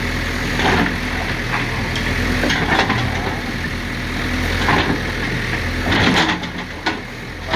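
JCB backhoe loader's diesel engine running steadily, with scattered knocks and clatter.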